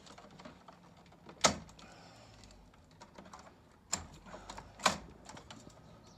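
Hands working on a stairlift carriage, making sharp clicks and knocks of handled parts: a loud one about a second and a half in and two more about four and five seconds in, with lighter taps between.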